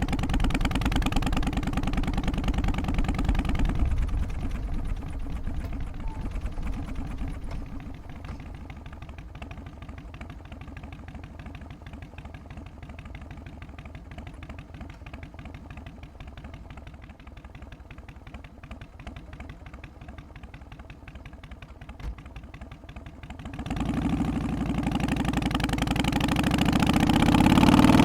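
Harley-Davidson Twin Cam 88 V-twin in an FXST Softail running with its lumpy three-beat idle, loud at first and then settling to a quieter steady idle. Near the end the revs climb and the engine gets much louder.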